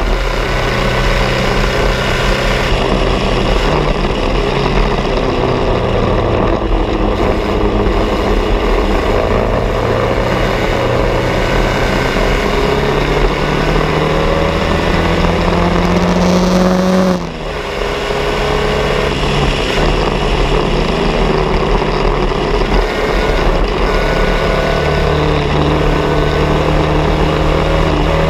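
Bianco #66 race car's engine running hard under load, its pitch climbing slowly through the revs. About 17 seconds in the pitch and level drop sharply for a moment, as on a gear change or lift, then the engine pulls again.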